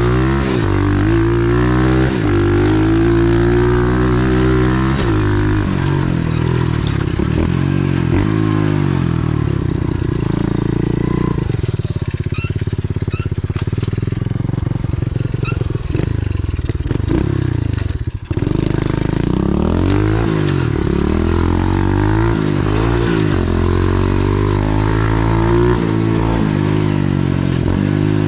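125cc four-stroke pit bike engine running under load while riding a dirt trail, its pitch rising and falling again and again as the throttle opens and closes through the gears. The engine note drops away briefly about eighteen seconds in, then picks back up.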